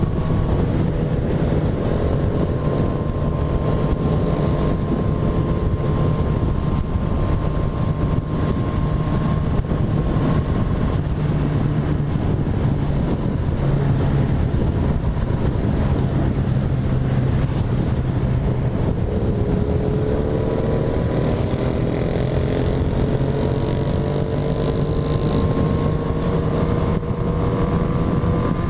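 Motorcycle engine running steadily under heavy wind noise on the microphone; from about two-thirds of the way in, its pitch climbs slowly as it gains revs.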